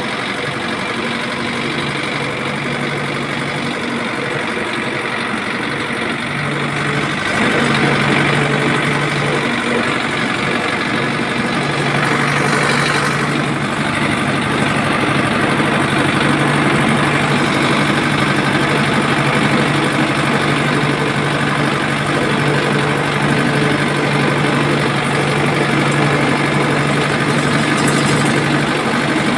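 A motor running steadily with an engine-like hum, getting louder about seven seconds in and again around twelve seconds.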